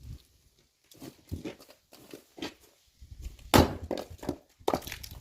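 An axe chopping firewood: a few light knocks of wood, then one loud sharp chop about three and a half seconds in and another strike about a second later.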